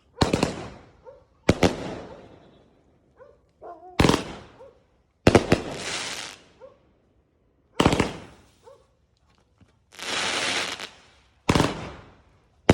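24-shot consumer firework cake firing its shots one at a time, about seven sharp reports spaced one to two and a half seconds apart, each trailing off. About ten seconds in comes one longer, hissing burst lasting about a second.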